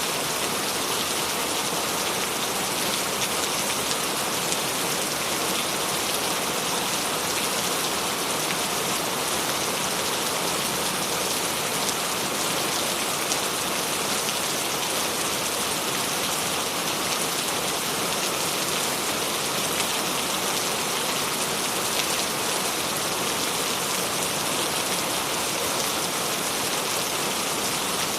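Steady rain falling, a dense even patter of drops on a hard surface with small individual drop clicks.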